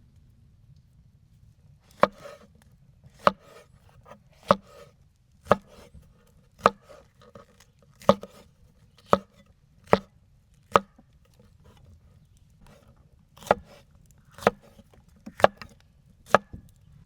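Chopping with a blade: sharp, evenly paced strikes about once a second, a run of about nine, a short pause, then four or five more.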